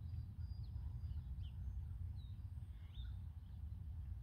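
A few short bird chirps, scattered and high-pitched, over a steady low rumble.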